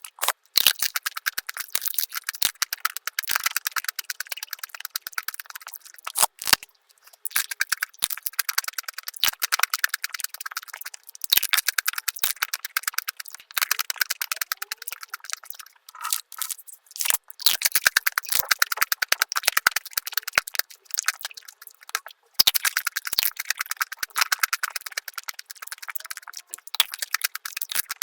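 Close-miked mukbang eating sounds of chocolate being bitten and chewed, sped up five times into a dense, fast stream of clicks and crackles with no low end, broken by a few brief pauses.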